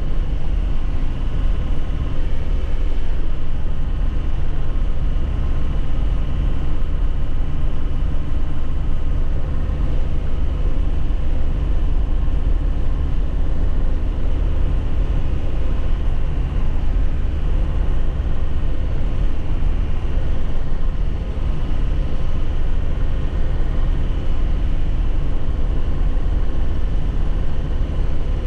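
2001 Nissan Cabstar 106Le truck engine and road noise heard inside the cab, running steadily while driving.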